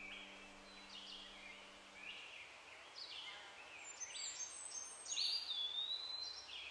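Woodland birds singing: a series of short chirps and whistled notes, with a longer whistle about five seconds in that dips and then holds steady, over a faint outdoor hiss.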